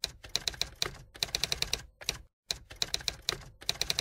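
Typewriter sound effect: mechanical keys clacking in quick runs of strikes with short pauses between, keyed to letters being typed out on screen.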